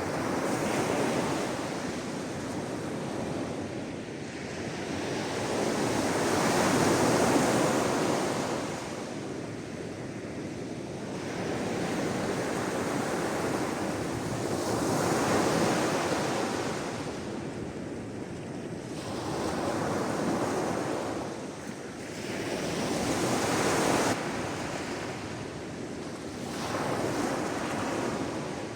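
Sea waves washing onto the shore, swelling and fading every few seconds, with some wind noise on the microphone.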